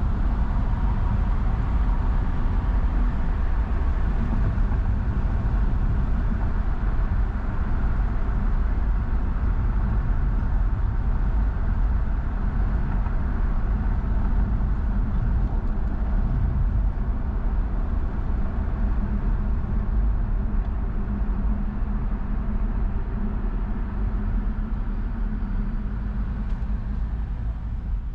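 Steady road noise of a car driving: a continuous low rumble of tyres and engine.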